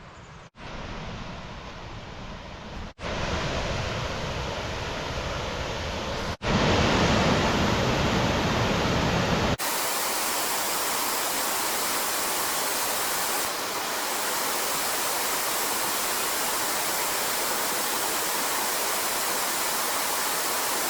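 Clearwater Falls pouring: a steady rush of falling water. In the first ten seconds it cuts abruptly a few times, each cut changing its tone, then it settles into an even rush.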